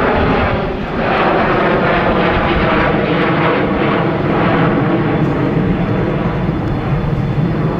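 Sukhoi Superjet 100 airliner's twin SaM146 turbofan engines, loud as the jet flies its display, with steady engine tones over a heavy jet rush that swells about a second in.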